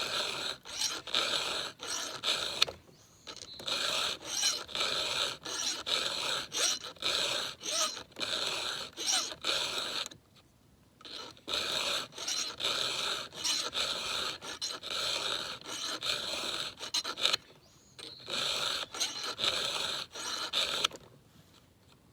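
Chainsaw file rasping across the cutters of a new, never-sharpened 32-inch Husqvarna X-Cut saw chain, in runs of quick even strokes at about two a second, broken by three short pauses.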